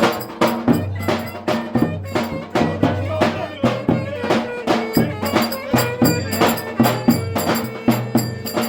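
Turkish folk dance music (oyun havası) with a steady drum beat, about three to four strokes a second, under a sustained pitched melody line.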